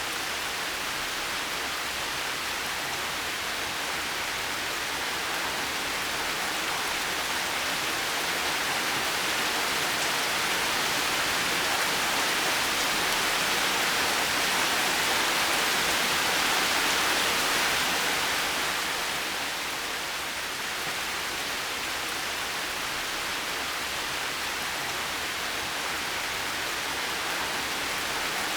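Heavy rain falling in a steady, even hiss. It swells a little louder past the middle, then eases back.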